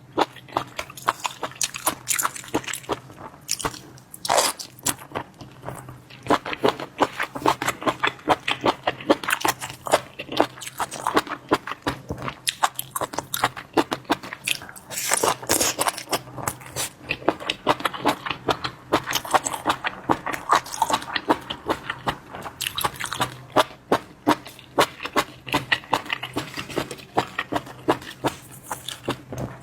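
A person chewing raw geoduck clam meat: a dense, irregular run of crisp crunching and wet chewing clicks.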